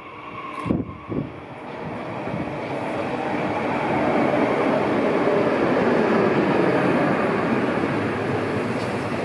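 TER regional multiple-unit train arriving alongside the platform, the rumble and rush of its wheels and running gear building over the first few seconds and staying loud as the carriages pass close by. Two sharp knocks come about a second in.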